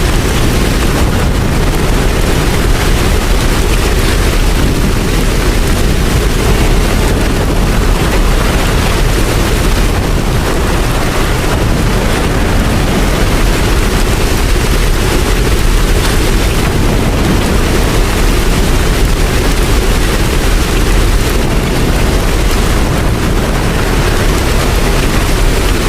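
Steady heavy rain: a dense, even hiss with a deep rumble underneath, unchanging throughout.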